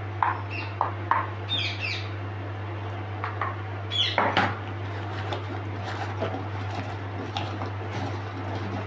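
A bird chirps a few times over a steady low hum, with light clinks of steel bowls being handled on a kitchen counter.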